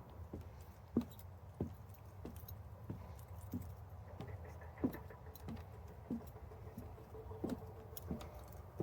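Footsteps walking at a steady pace, about three steps every two seconds, with light clinking on some steps, over a steady low hum of passing traffic.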